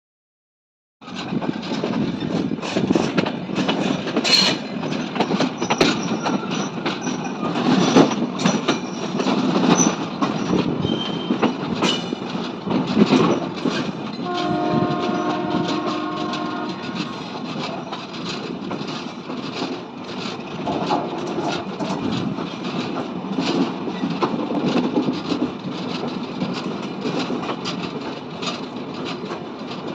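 Intercity express train running past on a curve, beginning about a second in: a steady rumble with rapid clicks of wheels over the rail joints. Its horn sounds once for about two and a half seconds near the middle.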